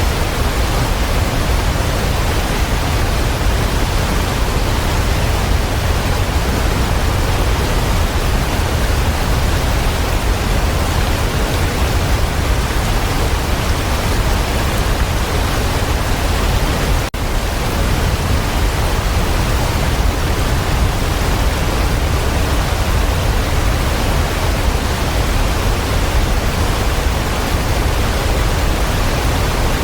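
Waterfall rushing steadily, a dense continuous roar of falling water heaviest in the low end, with one momentary dip in level just past the middle.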